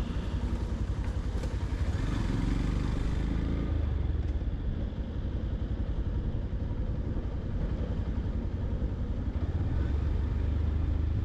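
Yamaha FZ-X motorcycle's single-cylinder engine running as the bike is ridden, a steady low rumble with road noise.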